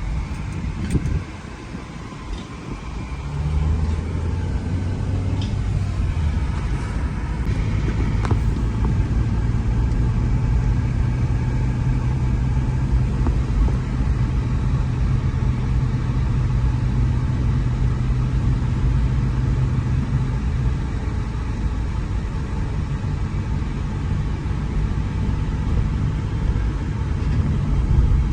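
A car driving, with its engine humming steadily over road rumble. The sound dips briefly about a second in, then the engine note picks up and holds steady.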